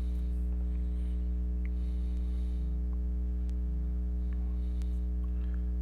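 Steady electrical mains hum, a low buzz with a ladder of overtones above it, unchanging throughout.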